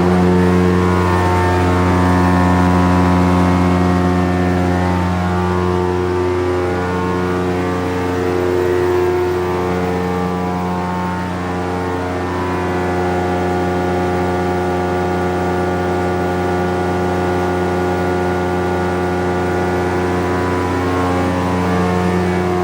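Mid Oregon Mini Hog scrap grinder running at speed, its 30 hp electric main motor turning the rotor. A steady, loud hum with a stack of overtones, some of which swell and fade, running smoothly.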